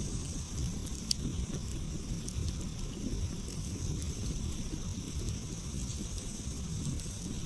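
Wood campfire crackling, with scattered small pops and one sharp pop about a second in, over a low steady rumble.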